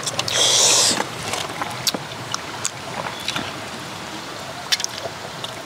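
People eating: scattered small clicks of chewing and mouth noises over a steady background hiss, with a short, louder hiss about half a second in.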